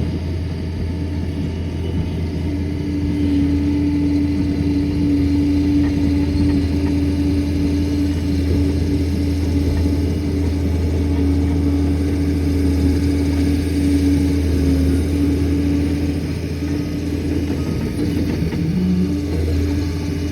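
Liebherr PR 746 crawler dozer's diesel engine running steadily. A steady humming tone comes in over the engine about two and a half seconds in and holds, wavering slightly.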